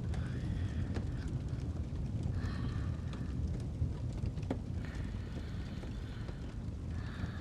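Fire crackling with scattered small pops over a steady low rumble, with slow, even breathing swelling and fading about every two and a half seconds.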